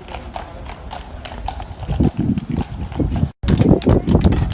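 Horse's hooves clip-clopping at a walk, the hoof strikes growing louder and heavier about halfway through, with a brief cut-out of all sound near the end.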